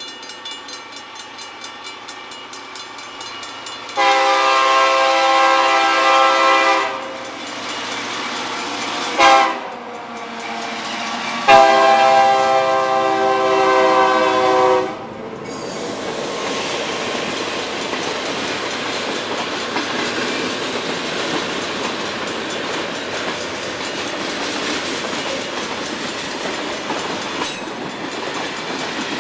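Diesel freight locomotive's multi-tone air horn sounding a long blast, a short one and another long one, the pattern a train uses approaching a grade crossing. Then the train runs past with a steady rumble and wheels clicking over the rail joints.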